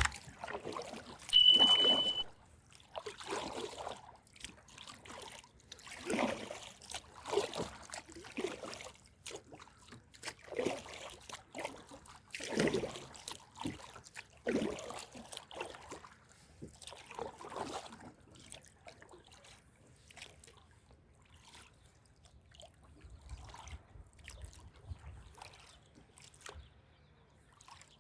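Water trickling and splashing around a kayak on a calm sea, in repeated soft swishes about once a second that thin out in the last third. A short high beep sounds once, about a second and a half in.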